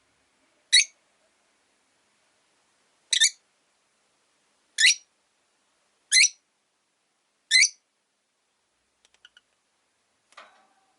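Rosy-faced lovebird giving five loud, short, shrill chirps, one every second or so, followed by two fainter calls near the end.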